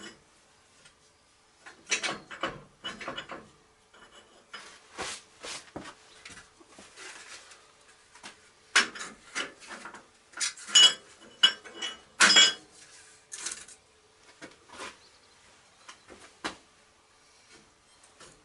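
Metal parts and tools being handled and set down on a workbench: irregular clinks and clanks, some with a brief metallic ring, loudest in a cluster a little past the middle. A faint steady hum lies underneath.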